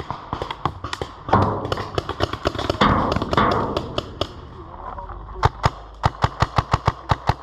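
Paintball markers firing: scattered pops, then a rapid string of shots at about six a second starting a little past halfway.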